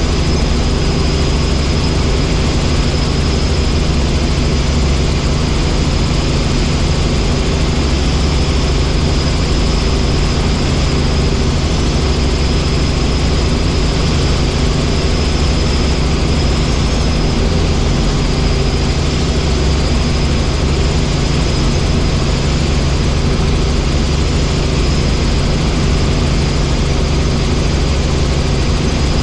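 Helicopter in flight: a steady, unchanging drone of rotor and engine.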